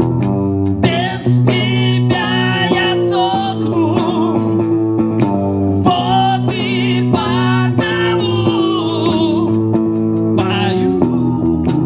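Live rock band playing a song with electric guitar and bass, and a voice singing over it with a wavering melody.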